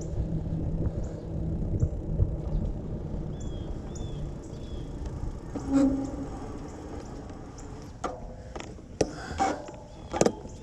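Outdoor street ambience with wind rumble on the microphone during a bike ride, easing off about halfway. A few sharp clicks and knocks in the last few seconds.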